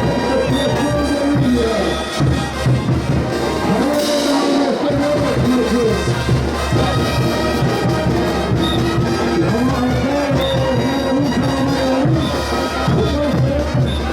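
Bolivian brass band playing a ch'uta dance tune: a brass melody of trumpets and trombones over a steady low drum beat, with a crash about four seconds in.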